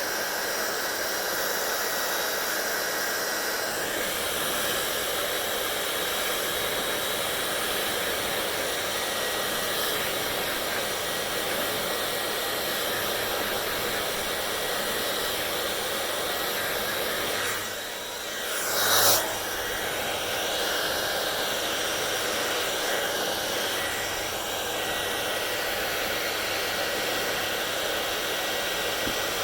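Hair dryer blowing steadily, with a brief dip and then a short louder surge about two-thirds of the way through.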